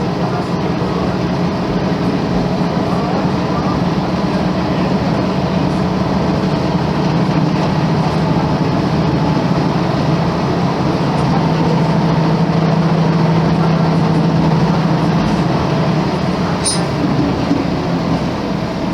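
Volvo B10M bus's underfloor straight-six diesel engine running, a steady low drone that grows a little louder in the middle and eases off near the end.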